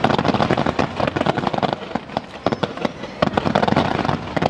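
Aerial fireworks bursting in quick succession: a dense, continuous stream of sharp bangs and crackles.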